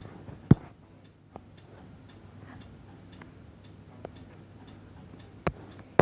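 A run of light, fairly regular ticks or clicks, with a few louder sharp taps about half a second in and again near the end.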